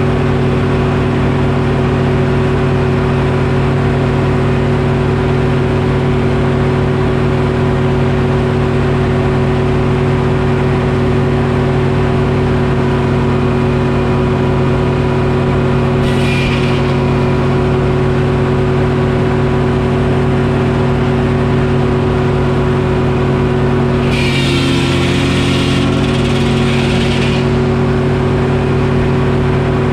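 Detroit Diesel engine running steadily at a constant speed, powering a Frick sawmill. A short hiss comes about halfway through, and a longer one later on, during which the engine pitch dips slightly as if briefly loaded.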